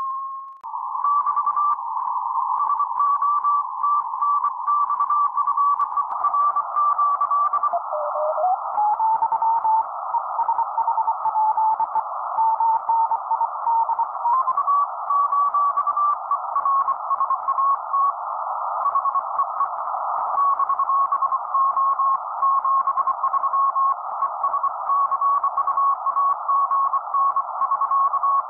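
A steady whistle of an unmodulated carrier in hissy, narrowly filtered SSB receiver audio from an RTL-SDR tuned to the QO-100 satellite transponder. The tone's pitch drops sharply about eight seconds in, then climbs back in steps over the next several seconds.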